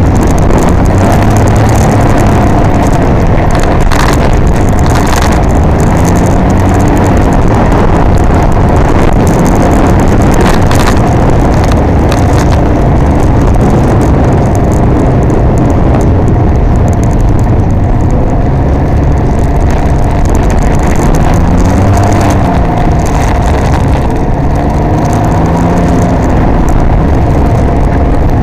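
Can-Am Ryker Rally 900's three-cylinder engine running while riding in city traffic, its pitch rising and falling several times with throttle changes over a steady low rumble.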